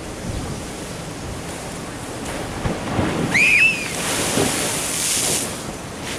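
Ocean waves surging and washing against a sea wall, with wind buffeting the microphone and swells of hissing spray, the largest about five seconds in. A short, high double chirp sounds about three and a half seconds in.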